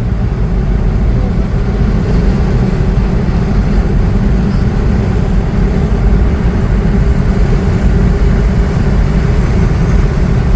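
Steady low rumble of a car driving, road and engine noise heard from inside, with a faint constant hum above it.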